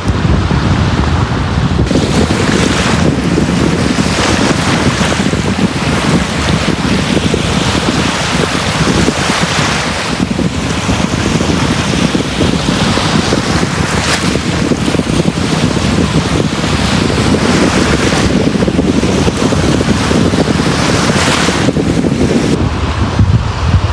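Sea waves breaking on a beach: a continuous loud rush of surf that swells and eases as waves come in, with a deep rumble underneath. It drops back briefly near the end.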